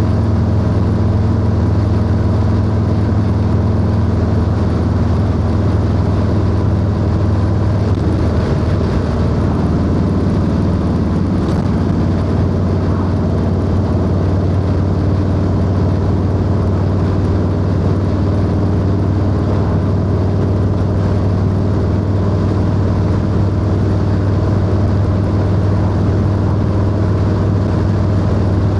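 Harley-Davidson Low Rider S (FXLRS) V-twin running through a 2-into-1 exhaust while riding at a steady cruising speed, the engine note shifting slightly about eight seconds in and then holding steady.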